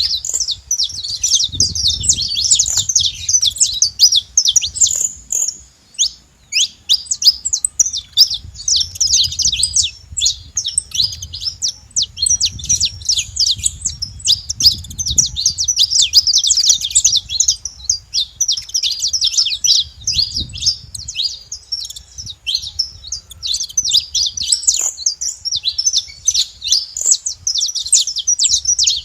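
A flock of saffron finches calling together: many overlapping high, quick chirps and twitters forming a dense, continuous chatter.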